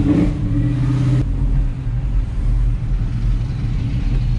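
Car engine running steadily; a higher hiss over it drops away about a second in.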